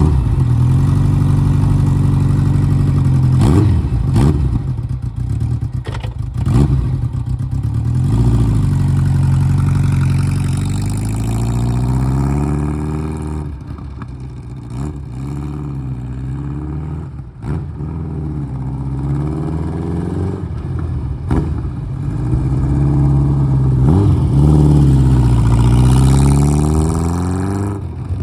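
Honda GL1200 Gold Wing's flat-four engine running, its pitch rising and falling again and again as the throttle is opened and closed, with several sharp clicks along the way.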